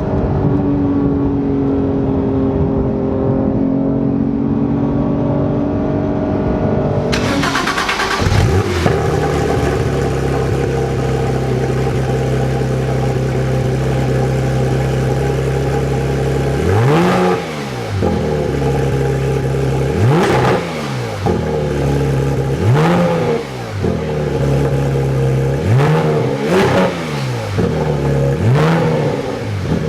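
Porsche 991 GT3 flat-six through a stainless valved side-muffler bypass exhaust. It runs steadily, settles to idle, then is blipped in a string of about five quick revs, each rising and falling, roughly every three seconds.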